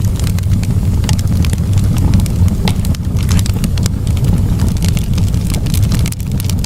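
Wood campfire burning, crackling and popping many times over a steady low rumble.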